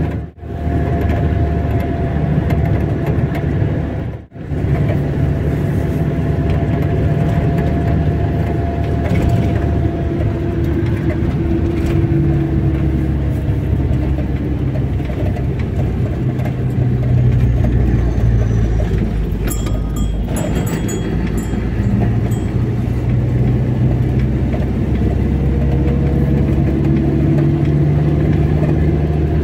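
Car driving along a road: steady engine and tyre noise with a low hum, briefly cutting out twice in the first few seconds.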